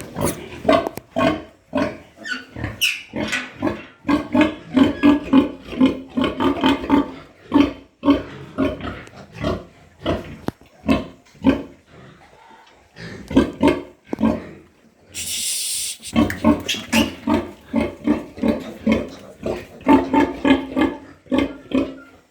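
Yorkshire piglets grunting in quick runs of short grunts, with a brief pause near the middle. A short hissing noise about fifteen seconds in.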